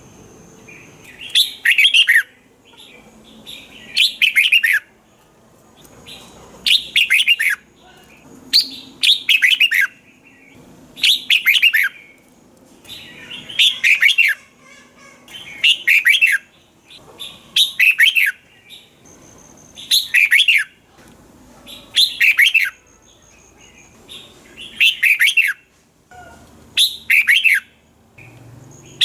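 Red-whiskered bulbul singing: short bright phrases of falling notes, repeated about every two seconds.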